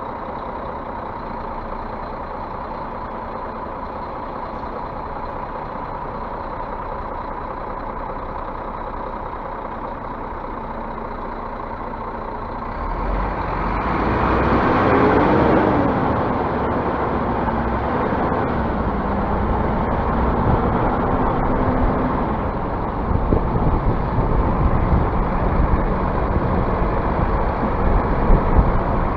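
Scania bus running steadily, then about 13 seconds in the engine revs up as the bus pulls away, its note rising and falling before settling. Near the end, rattles and knocks join the engine sound.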